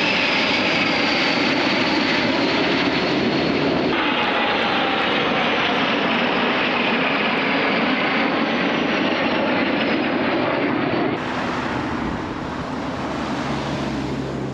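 Racing motorcycles at high revs on the track: a loud, dense engine noise whose pitch slowly falls, in several clips joined by abrupt cuts about 4, 8 and 11 seconds in, quieter after the last cut.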